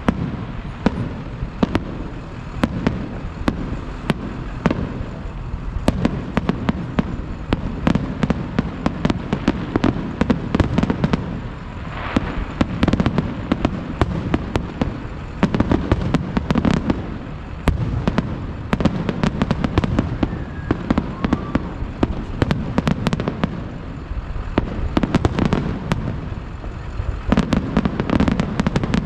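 Aerial fireworks going off in rapid, continuous succession: a dense run of sharp bangs over a steady low rumble of overlapping booms.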